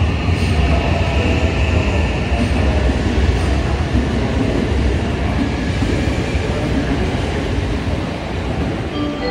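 JR West 323 series electric commuter train pulling out of a station platform: a steady rumble of wheels and motors that eases off near the end as the last car draws away.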